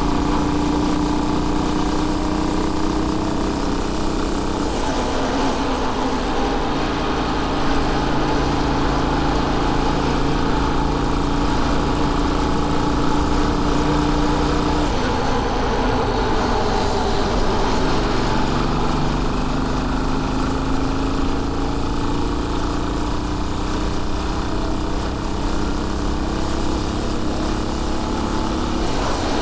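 Royal Enfield Bullet 500's single-cylinder four-stroke engine running on the move. Its pitch steps down about four seconds in, shifts again around the middle as the revs change, then rises slowly through the second half.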